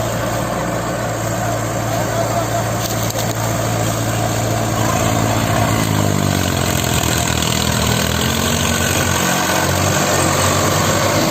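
Tractor diesel engine running steadily, its pitch sinking about halfway through as the engine slows.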